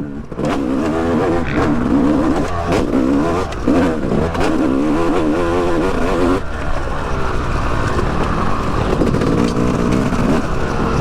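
Yamaha YZ250X two-stroke dirt bike engine revving up and down over and over as the bike is ridden, heard through a microphone inside the rider's helmet.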